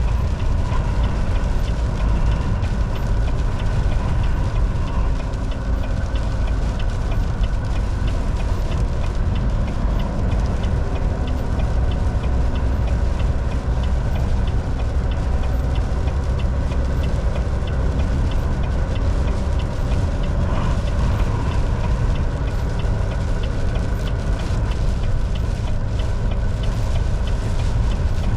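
Volvo VNL 760 semi truck driving on the highway: a steady diesel engine drone and road noise, heaviest in the low end, with a faint, even ticking over it.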